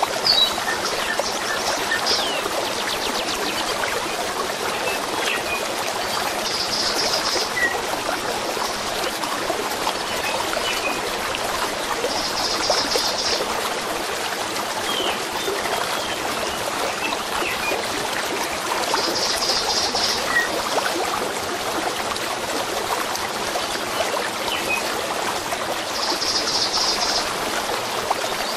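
A stream running steadily, with small birds chirping here and there over it. A short, high trill of rapid pulses recurs four times, about every six to seven seconds.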